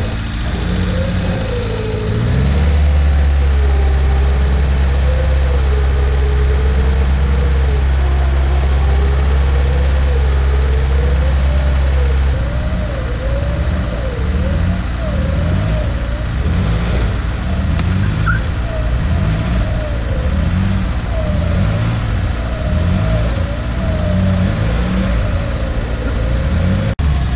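Off-road vehicle engine running hard: held at steady high revs for about ten seconds, then revving up and down repeatedly, with a wavering whine over it.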